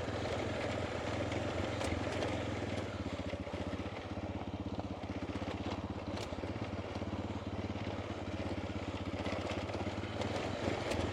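Honda Dominator's single-cylinder four-stroke engine running at a steady speed, its firing pulses coming evenly.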